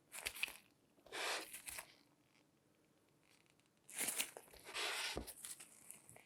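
Close-up crinkly, scratchy handling noise in four short bursts, two near the start and two in the second half, with a few light taps.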